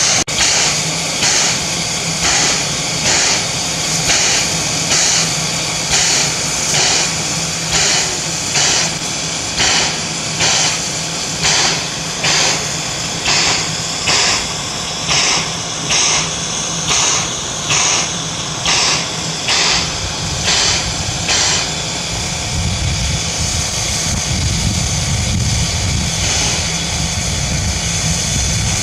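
Steam locomotive's exhaust chuffing in a steady beat, about one and a half chuffs a second, as it works its train. Around two-thirds of the way in the chuffs fade out and a steady low rumble of the rolling train takes over.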